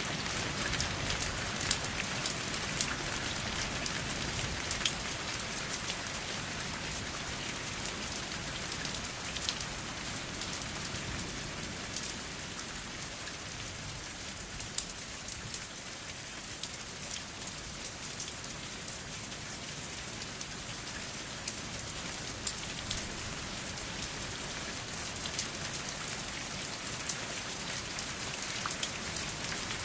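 Steady rain falling, with separate drops ticking sharply through the even hiss.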